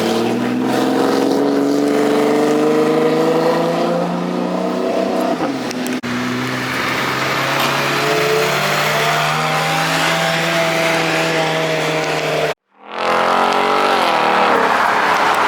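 Car engines accelerating, their pitch climbing steadily over several seconds; a second run starts about six seconds in, and the sound breaks off abruptly near the end before engine noise resumes.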